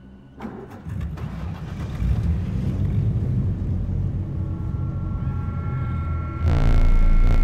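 A car engine running hard, starting abruptly a moment in and growing louder, with a further jump in loudness and a steady whine about six and a half seconds in.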